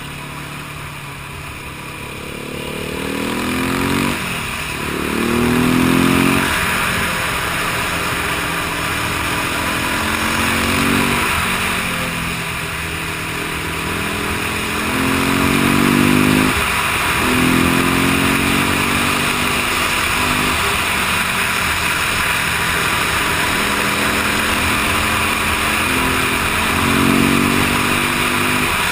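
Motorcycle engine accelerating through the gears: the pitch climbs, drops at each shift and climbs again, several times over. A steady rushing noise runs underneath.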